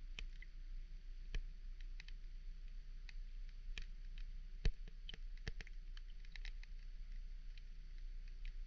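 Underwater ambience: sparse, irregular sharp clicks and ticks over a low steady hum, with one louder click about halfway through.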